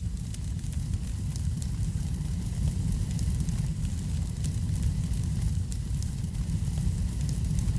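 Wood fire crackling, with frequent small sharp pops scattered over a steady low rumble.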